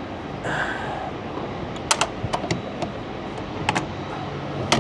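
Irregular sharp metallic clicks, about half a dozen, after a brief rustle: the latch handles of a PW1100G engine's C-duct cowl being worked open.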